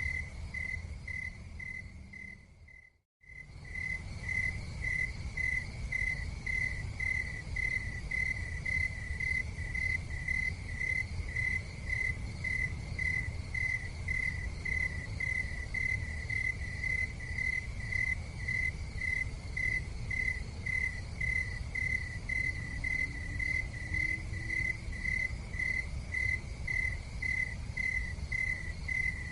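Cricket chirping steadily in a high, even pulse about twice a second over a low, steady rumble. About three seconds in, the sound fades out to a brief silence and then resumes, as at the join of a looped recording.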